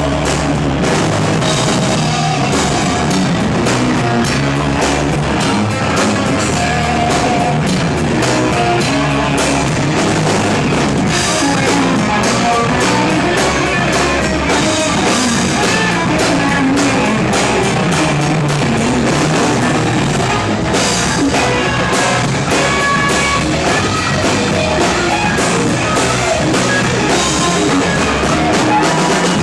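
Live rock band playing an instrumental passage: distorted electric guitars over a driving drum kit and bass, with no vocals.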